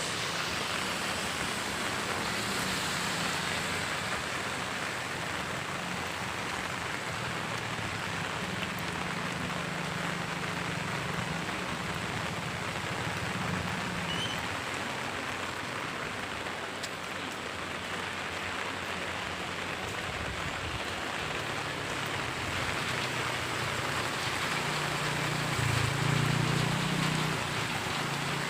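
Steady rushing water noise of heavy rain and floodwater, with a low hum underneath that grows louder near the end.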